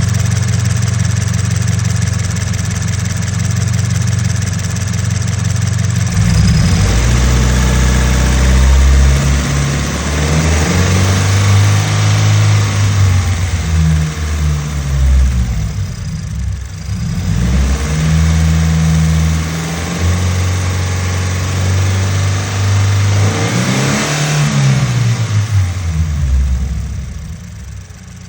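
2014 Subaru BRZ's 2.0-litre flat-four boxer engine idling, then revved up and down several times, with a quick rise and fall near the end. It carries a rattle that the owner is unsure is normal.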